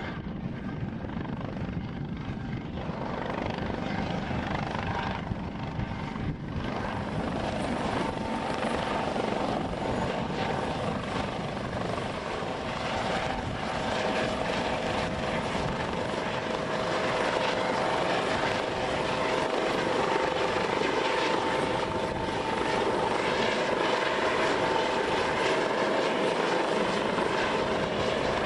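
Helicopter in flight, its rotor and turbine running steadily and growing louder, with a steady whine coming in about eight seconds in.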